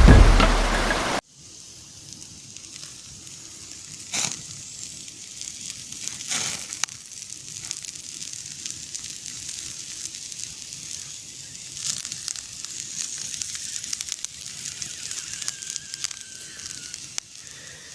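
Wood campfire crackling, with a few sharp pops and snaps. A loud sound at the start cuts off abruptly about a second in.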